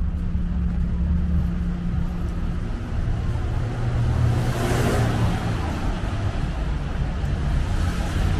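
Road traffic: a steady low rumble, with a car passing by about halfway through, its tyre noise swelling and fading.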